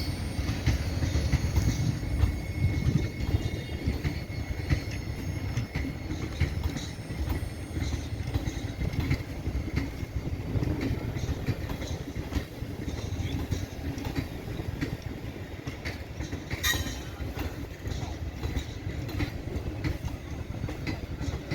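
Indian Railways train running on the rails: a steady low rumble of wheels on track with scattered clicks, and one louder, sharp metallic sound about seventeen seconds in.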